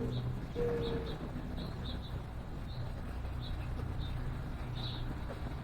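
A dove cooing: two long, slightly falling coo notes in the first second. Small birds chirp with short, high notes on and off throughout, over a steady low hum.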